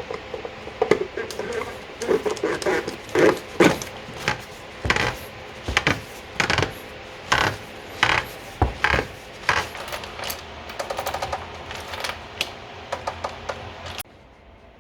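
Metal clinks and clicks of a socket ratchet and hand tools refitting the oil drain plug on its new washer, with two short fast runs of ratchet clicks in the second half. The sound cuts off suddenly near the end.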